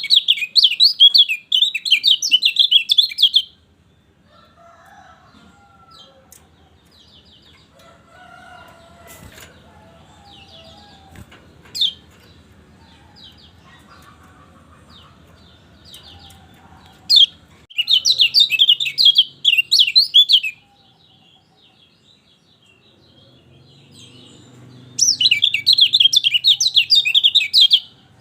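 Kecial kuning (white-eye) song: three bursts of fast, jumbled, high chirping warbles, each lasting about three seconds, at the start, about 18 seconds in and about 25 seconds in, with faint scattered chirps in between.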